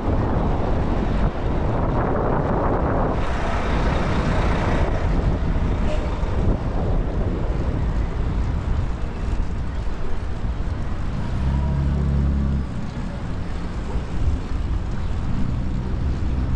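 City street traffic heard from a moving bicycle, with wind rushing over the action camera's microphone. Cars and heavy vehicles pass, and a low engine hum stands out for about a second past the middle.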